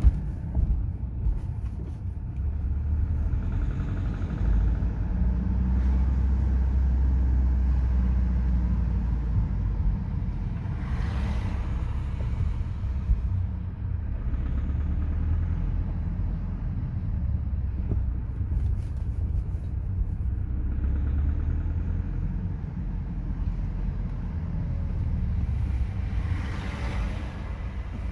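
BMW 5 Series engine running at low revs, a steady low rumble: the noise the car makes when lugging under-rev.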